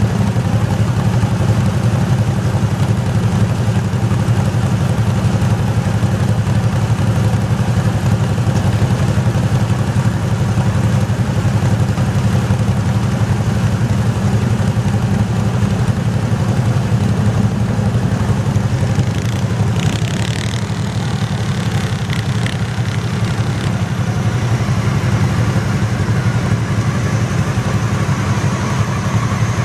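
Garden tractor engine running steadily, with a few brief higher-pitched sounds about two-thirds of the way in.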